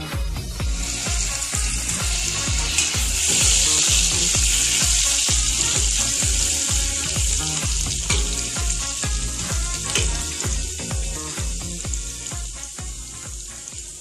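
Food sizzling in hot oil in a steel saucepan on a gas stove: the hiss starts about a second in, is loudest for a few seconds, then slowly dies down. Background music with a steady beat plays throughout.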